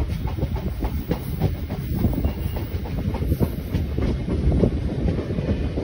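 Train running along the track, heard up close from the coach itself: a steady rumble of wheels on rails with irregular clicks and clacks throughout.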